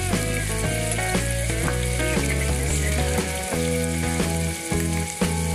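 Oil sizzling steadily as chopped onion and garlic paste fry in a pot, with instrumental background music playing over it.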